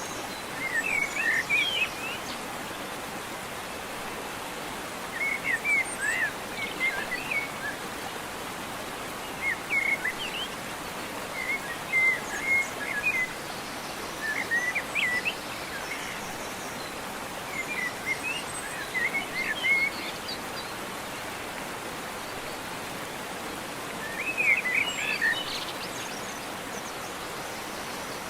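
Songbird singing short, quick chirping phrases every few seconds over a steady background hiss.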